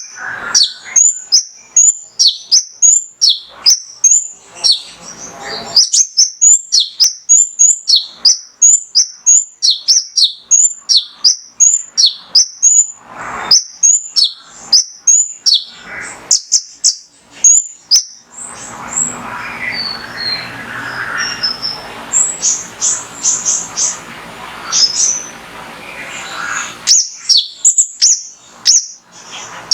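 Male sunbird (konin, 'kolibri ninja') singing: a fast run of sharp, high chirps, two or three a second. From about two-thirds in, the chirps give way to a more varied twitter over a hiss-like background, then the sharp chirps come back near the end.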